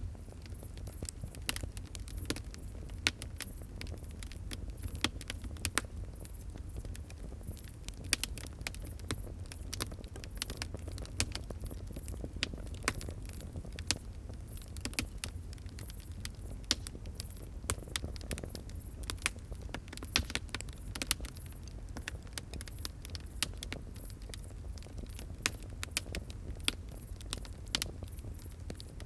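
Fire crackling: a dense, irregular run of sharp pops and snaps over a steady low rumble.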